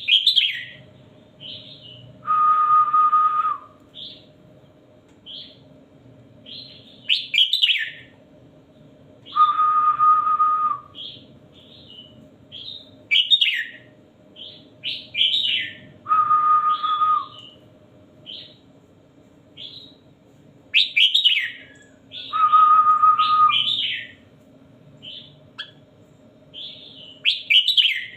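Red-whiskered bulbul song played as a tutor recording for training caged bulbuls: short falling chirps and whistled notes, with a steady held whistle about a second long that comes back about every seven seconds in a repeating cycle. A faint steady hum runs underneath.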